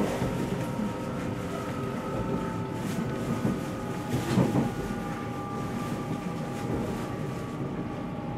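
Interior running noise of a JR 313-series electric train in motion: a steady rumble from wheels on rail, with faint thin whining tones from the drive that drift slightly lower in pitch. A brief louder bump about four seconds in.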